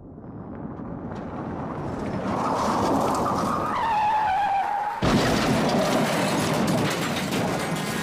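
Car crash sound effect: a car approaching and growing louder, tyres screeching for a couple of seconds with the pitch dropping, then a sudden crash about five seconds in, followed by clattering debris.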